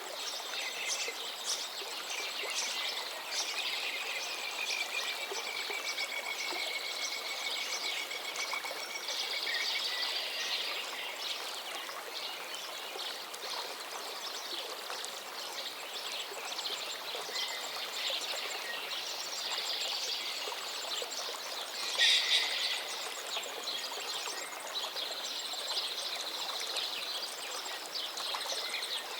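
Several birds singing and chirping over the steady rush of a flowing stream. One bird holds a long, slightly falling whistle for a few seconds early on, and a loud sharp call stands out about 22 seconds in.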